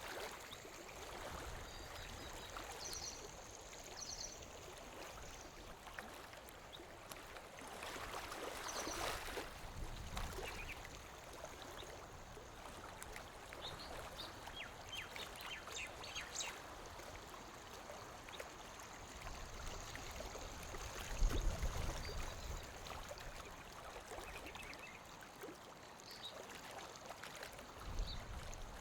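Lake water lapping gently against the shore, a steady wash with small splashes. There are a few short high chirps, and a louder low thud about three-quarters of the way through.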